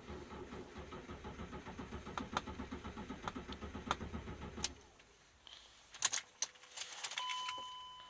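BMW E39 525tds six-cylinder turbodiesel idling cold with a rhythmic diesel clatter, then shut off about halfway through. A few sharp clicks follow, then a steady electronic tone starts near the end.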